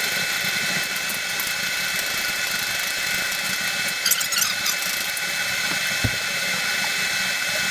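AC TIG welding arc on aluminum tube: a steady buzzing hiss with a few constant high tones.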